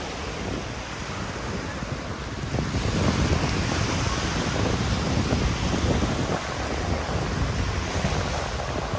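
Surf washing onto a sandy beach with wind buffeting the microphone, a gusty low rumble that grows louder about two and a half seconds in.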